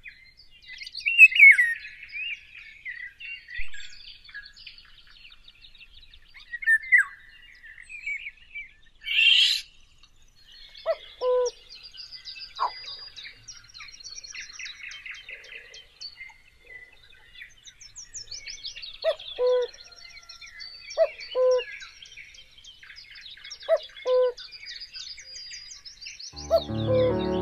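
Garden songbirds chirping and singing, many short high calls and trills overlapping, with short lower two-note calls repeating several times in the second half and a brief rustling burst about nine seconds in.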